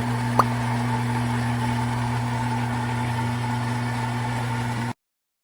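Philips Series 3300 fully automatic espresso machine running steadily with a low hum while it makes a regular coffee, with one sharp click about half a second in. The sound cuts off suddenly near the end.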